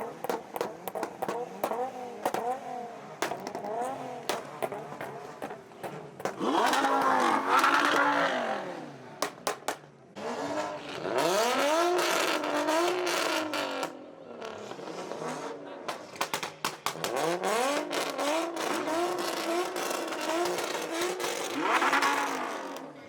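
Performance car engines revved hard again and again, the pitch climbing and dropping with each blip, with many sharp exhaust pops in between. The loudest revs come about a third of the way in, about halfway, and just before the end.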